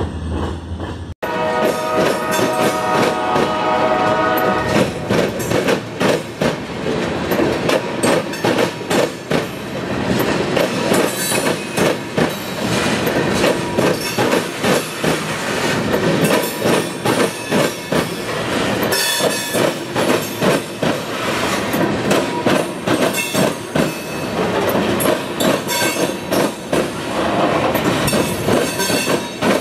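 Freight train cars rolling past at a grade crossing: a steady rumble of steel wheels on rail, with rhythmic clacking as the trucks cross rail joints. A train horn sounds for about four seconds near the start.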